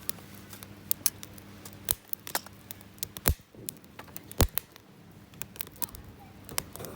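Wood campfire of dry cedar branches crackling, with sharp irregular pops scattered throughout; the loudest come a little after three seconds and at about four and a half seconds.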